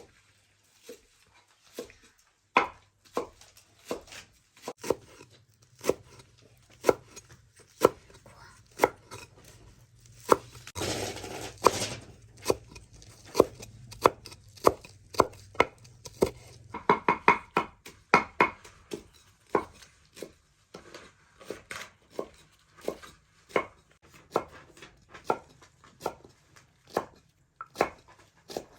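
Knife chopping on a cutting board in an unhurried, steady run of sharp knocks, about one to two a second. There is a short scraping noise about eleven seconds in and a quick ringing cluster of knocks a few seconds later.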